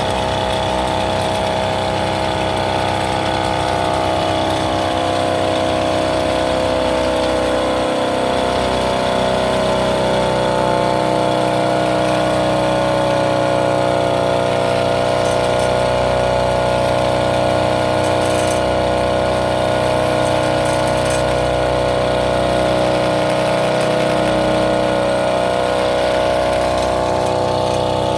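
Small engine of a farm monorail, a used replacement engine and transmission, running steadily with its pitch drifting slowly up and down.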